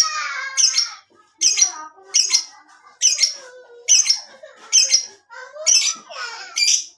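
Lovebird in long 'ngekek' chatter: sharp shrill chirps repeated about every second, with continuous twittering in between.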